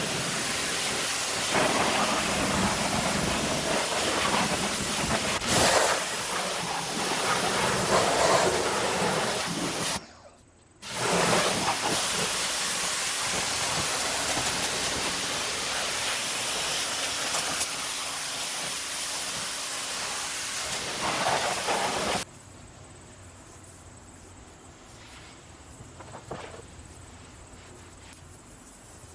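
Pressure washer spraying water onto a wheel and tire: a loud, steady hiss that breaks off briefly about ten seconds in, then gives way to a much quieter background after about 22 seconds.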